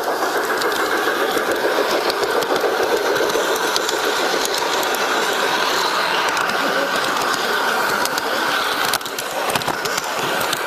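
Garden-scale model train running along its track, a steady fast mechanical rattle of its drive and wheels, with a few sharp clicks near the end.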